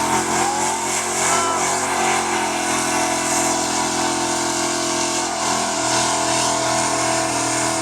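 Truck engine held at steady high revs during a long burnout, its spinning tyres hissing against the pavement.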